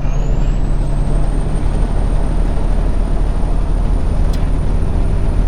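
Inside a tractor-trailer's cab while driving: steady low engine and road drone, with a thin high whistle that rises at the start and then holds steady, and a single short click about four seconds in.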